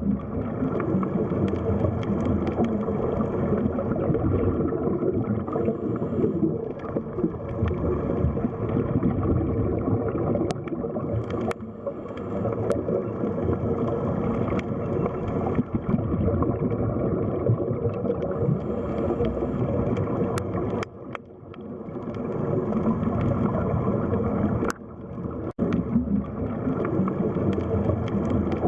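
Underwater ambience: a dense, steady rumbling and gurgling of water, with a few faint clicks and brief dips in level about two-thirds of the way through.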